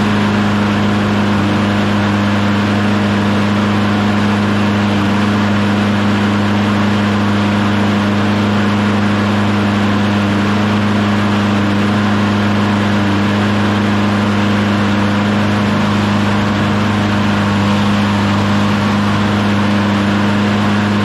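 John Deere JS36 lawnmower's Briggs & Stratton Quantum single-cylinder engine running at a steady speed just after starting, with no surging or stumbling now that its cracked intake manifold has been replaced. Sounds amazing.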